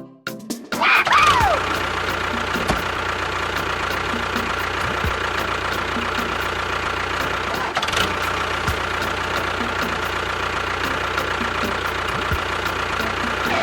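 An engine starts up just under a second in, with a short falling whine, then runs steadily.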